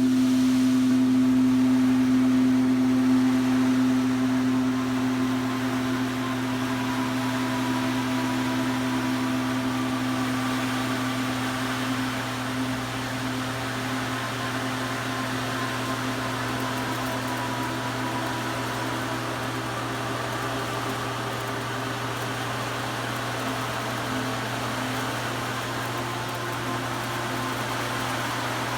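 Singing bowl sustaining a steady low tone that pulses slightly, with a soft rushing, hiss-like wash growing beneath it from about ten seconds in.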